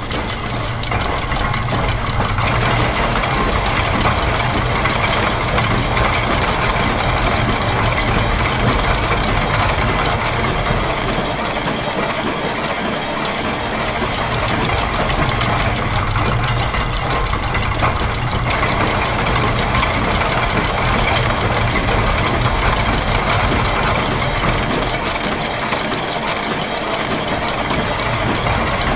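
Dense layered loop of factory machine sounds: clattering gears and ratchet clicking over a steady low engine-like hum, the layers shifting in and out as the loops of different lengths overlap.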